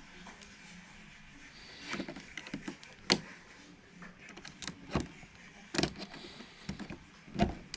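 Scattered sharp clicks and knocks of a screwdriver and fingers working the wiring terminals of a wall thermostat, as the wires are pulled off to jump it out.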